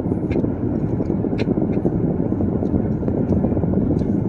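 Steady low rumble of a car driving, road and engine noise heard inside the cabin, with a few faint scattered ticks.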